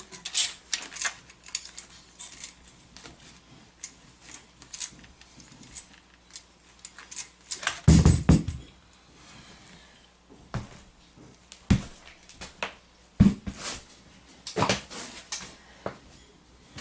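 Scattered clicks, clinks and knocks of objects being handled, with a heavier thump about eight seconds in and a few more knocks near the end.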